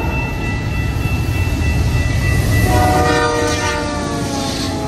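Freight train rumbling along the track, with a steady high whine over it. A locomotive horn sounds in the second half.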